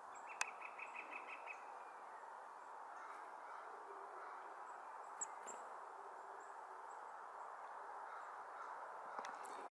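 Faint small-songbird calls: a quick trill of about eight evenly spaced notes in the first couple of seconds, then a few short high chips around the middle, over a steady background hiss.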